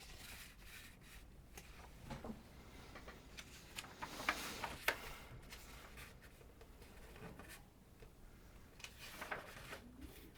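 Faint handling noises: scattered soft clicks and rustles, clustered about two seconds in, around four to five seconds, and near the end.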